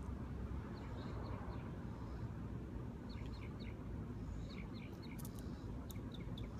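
A small bird chirping in quick runs of three or four short high notes, repeated several times, over a steady low outdoor rumble.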